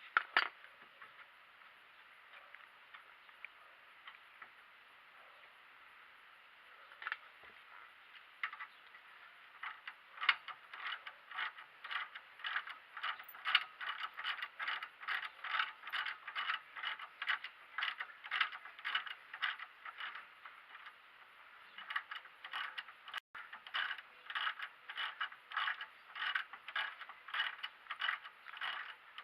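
Hand ratchet wrench clicking in steady strokes, about two to three clicks a second, as a bolt is turned during brake work. A few scattered clicks come first, the steady ratcheting starts about a third of the way in, and it pauses briefly before picking up again.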